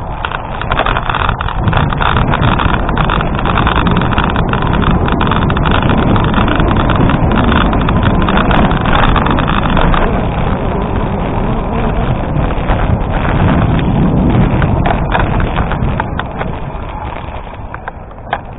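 Gravel bike rolling over an unpaved gravel road: a steady crunch of tyres on loose stones and rattling of the bike, mixed with wind on the microphone. It eases off a little in the last couple of seconds.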